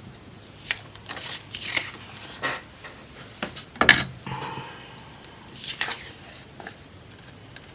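Magazine paper cut-outs being handled and rustled in irregular bursts, with one sharp click about four seconds in.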